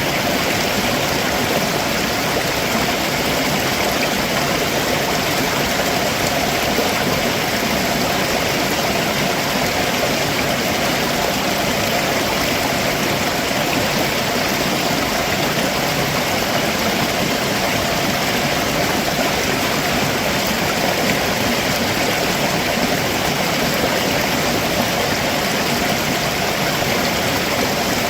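A stream running over rocks below a waterfall: a steady, even rush of water with no breaks.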